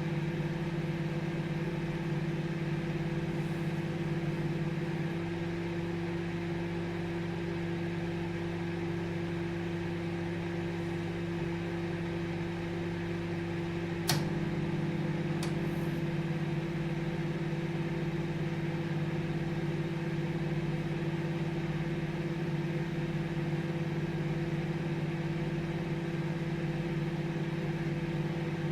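Microwave oven running with a steady hum and fan whir. About five seconds in the hum's low tone changes. About fourteen seconds in there is one sharp click, followed a second later by a fainter tick, and the hum returns to its first tone.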